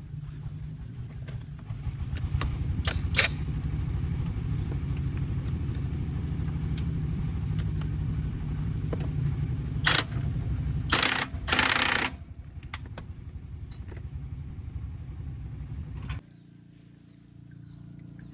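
A tractor engine running steadily with a fast low chug, growing louder about two seconds in. It is broken by a few sharp clicks and loud bursts of noise in the middle, then cuts out suddenly near the end, leaving a quieter hum.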